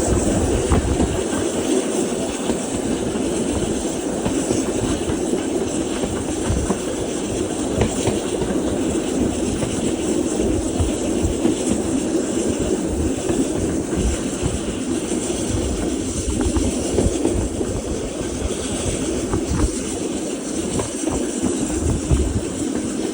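Heritage British Railways Mk1 coach running along the line: a steady rumble of wheels on the rails with a clickety-clack of the bogies over the track.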